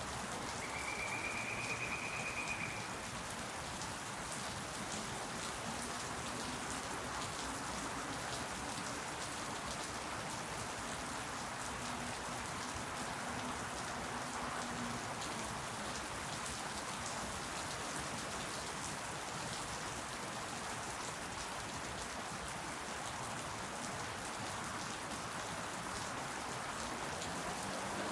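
Steady rain falling on leaves, with many separate drops ticking. About a second in, a high steady tone sounds for about two seconds.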